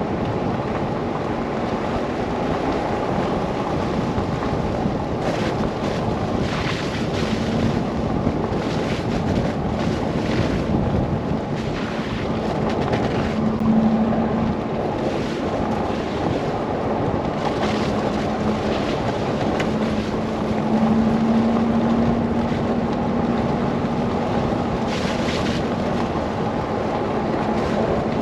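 Steady rushing noise of a car driving through a snow blizzard, with wind noise, a faint low hum and brief hissing swishes here and there.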